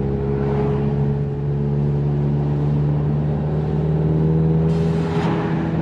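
Car engine running steadily at low revs with an even, unchanging hum, as the car creeps along or idles.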